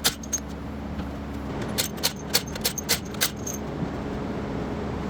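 Irregular sharp metallic clicks and clinks, a quick run of them around the middle, over a steady low background noise.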